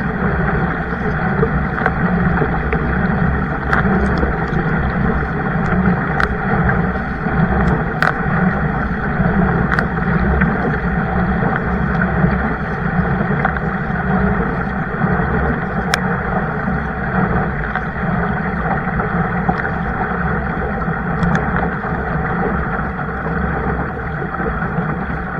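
Steady rushing and sloshing of water around a kayak moving on the water, with a few sharp clicks scattered through.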